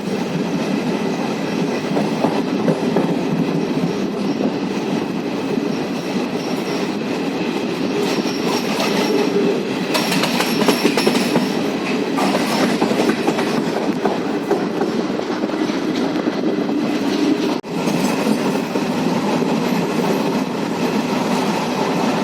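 Express passenger train running on the rails, heard from on board: a steady rumble with wheel clickety-clack over the track. The sound dips sharply for a moment about three-quarters of the way through.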